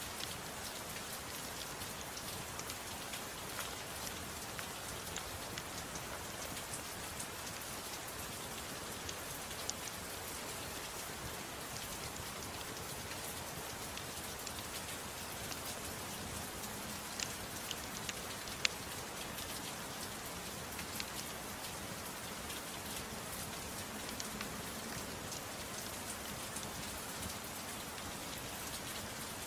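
Steady gentle rain falling, with scattered sharp clicks and pops through it, a couple of them louder about two thirds of the way in.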